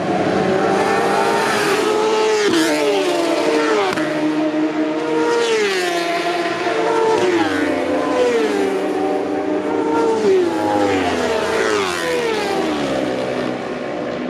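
Racing motorcycles passing one after another at high speed, each engine note dropping sharply in pitch as it goes by, several in turn.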